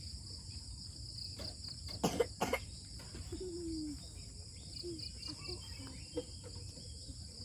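Insects, crickets by the sound of it, chirring steadily at a high pitch. Two sharp clicks or knocks come about two seconds in.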